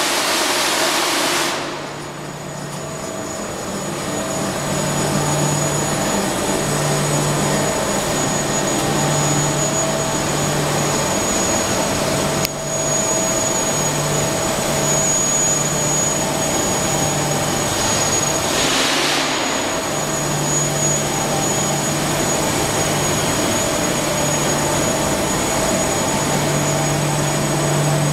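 Industrial washing line for rolled printed fabric running: a steady machine drone with a low hum that pulses on and off and a high whine. A burst of hissing comes at the start and another about two-thirds through.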